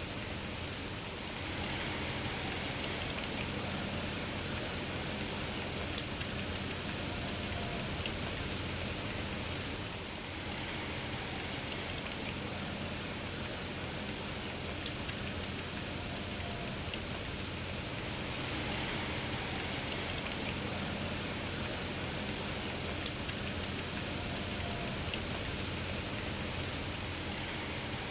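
Steady gentle rain, with the level swelling and easing slowly. Three sharp single drop clicks stand out, spaced about eight or nine seconds apart.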